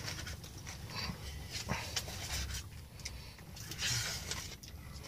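Hard, hurried breathing with a few faint clicks and scrapes of a spoon in a cup, from someone wolfing down a Dairy Queen Blizzard.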